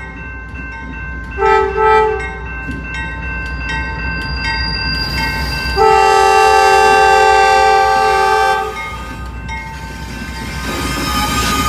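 Locomotive air horn sounding a crossing signal: a short blast, then a long blast, over the low rumble of the approaching train, which grows louder near the end.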